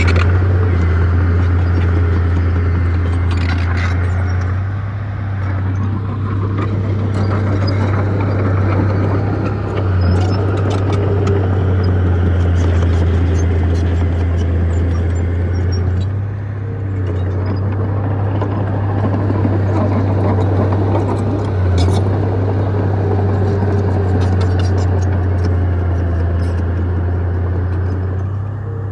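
Bulldozer's diesel engine running steadily under load, a loud low drone that dips briefly several times, with scattered sharp clicks over it.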